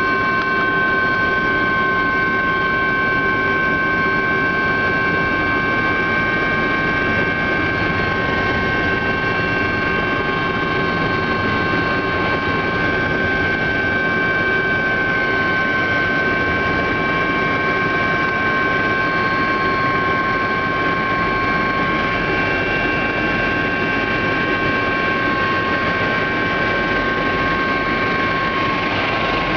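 Helicopter in steady flight, heard from on board: continuous engine and rotor noise with a steady high-pitched whine that holds constant throughout.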